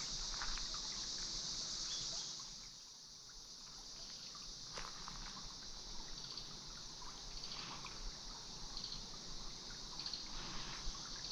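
Quiet forest ambience: a steady high-pitched insect buzz that fades out about two seconds in, then faint scattered ticks and a few soft knocks.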